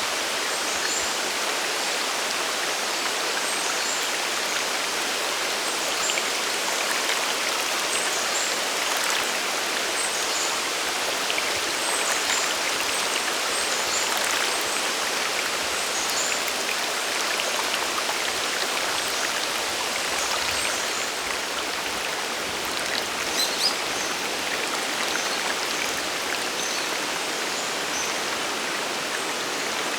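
Waterfall and mountain river water rushing steadily, a constant rush of falling and flowing water with no change in level.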